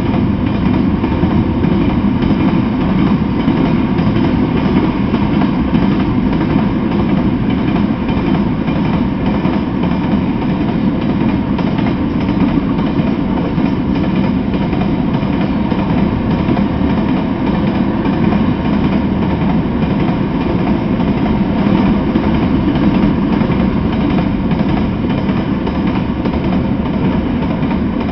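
Freight train of covered hopper cars rolling slowly past: a steady, unbroken noise of wheels running on the rails.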